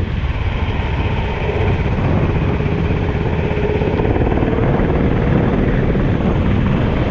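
Kart engine running under load, its note rising slightly and holding for a few seconds, buried in heavy wind buffeting on the microphone.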